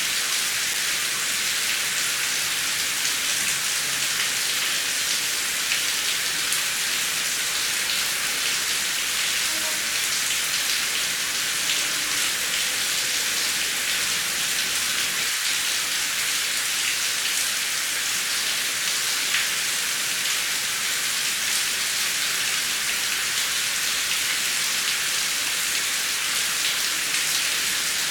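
Heavy rain falling steadily, a dense even hiss of many small drops pattering.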